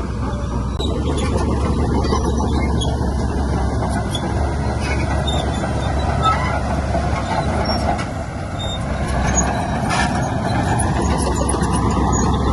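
Heavy diesel earthmoving machinery running steadily with a deep rumble, the level dipping briefly about eight seconds in.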